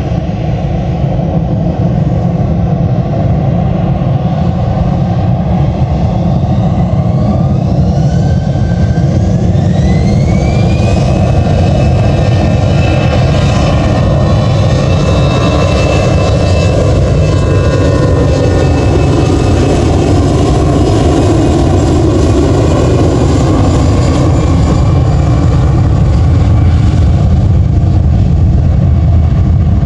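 Jet airliner's engines spooling up to takeoff thrust: a whine rises in pitch from about seven seconds in, levels off a few seconds later and holds steady over a loud, continuous rumble.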